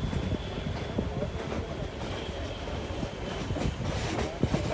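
Moving train running along the track, a steady rumble with the wheels clicking over rail joints.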